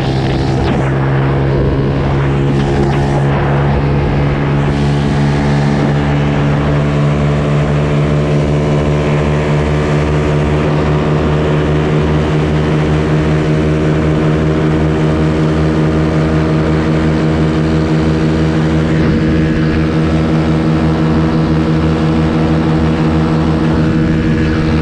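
Mini bike's small engine running steadily at a constant speed while riding, its pitch holding level throughout.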